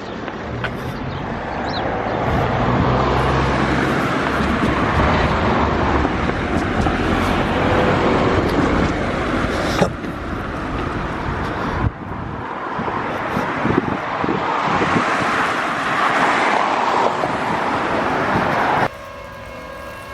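Street traffic: road vehicles passing, a steady rush of road noise with an engine hum early on. The sound cuts abruptly about halfway through, and near the end it drops to a quieter scene with faint steady tones.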